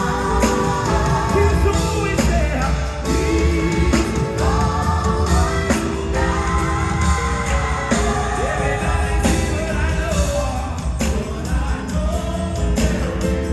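Gospel choir and band performing live: voices sing held notes in harmony over drums and bass.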